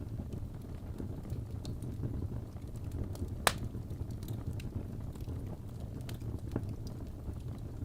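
Wood fire burning in a fireplace: a steady low rumble of the flames with scattered soft crackles, and one sharp loud pop about three and a half seconds in.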